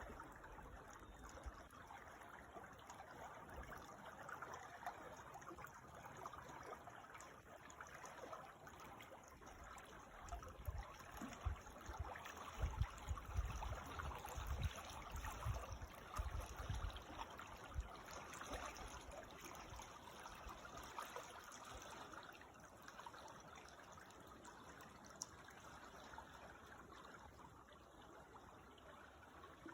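Creek water trickling and babbling steadily, faint. Irregular low rumbles come and go around the middle.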